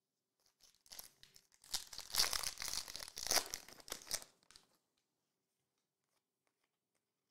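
A trading card pack's wrapper being torn open and crinkled, a crackly tearing that builds and then stops after about four seconds.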